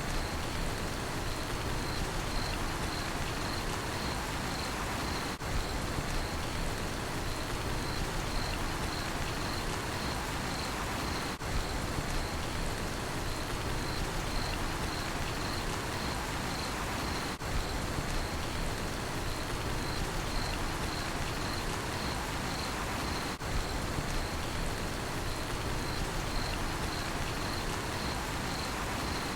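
Steady rainfall with a cricket chirping in a regular, even pulse, a couple of chirps a second, over it. There is a brief dip in level about every six seconds.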